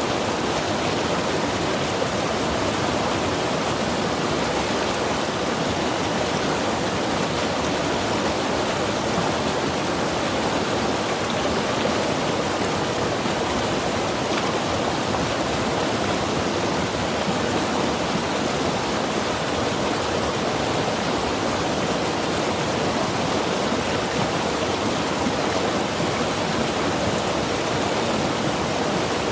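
Mountain river rushing steadily over rocks, a continuous even roar of water with no breaks.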